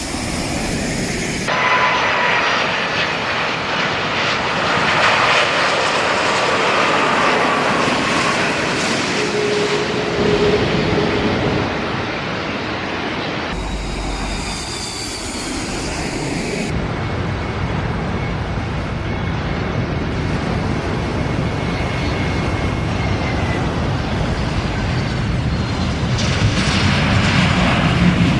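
Jet airliner engines running close by: a loud rushing noise with whining tones that slide slowly in pitch. The sound changes abruptly a few times.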